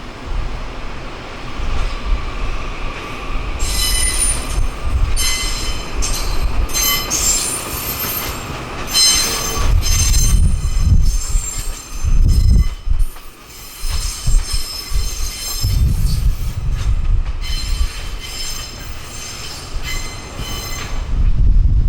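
Railway wheels squealing on the rails as a train moves slowly through a curve: shrill, ringing squeals that start a few seconds in and keep breaking off and returning, over the low rumble of the moving train.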